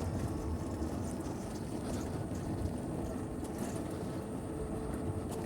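Riding noise from a Zero SR/F electric motorcycle on a dirt trail: steady wind rumble on the microphone and tyre noise, with a faint, thin high whine.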